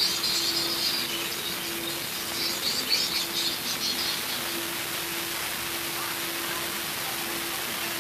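Lovebirds chirping in quick, high twittering bursts, one at the start and another about three seconds in, over a steady low hum and hiss.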